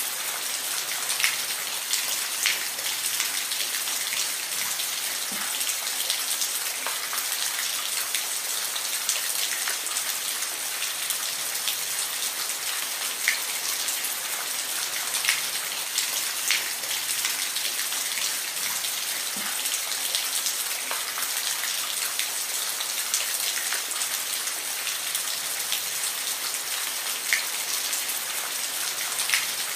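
Steady rain with a continuous hiss, and now and then a single louder drop ticking close by.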